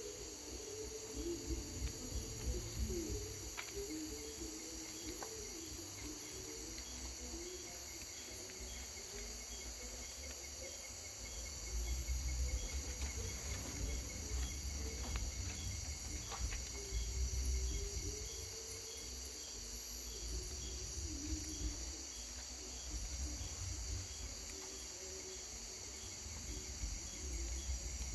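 Night insect chorus of crickets: steady high trilling with a regularly pulsing chirp under it, over a low rumbling noise that grows louder for several seconds in the middle.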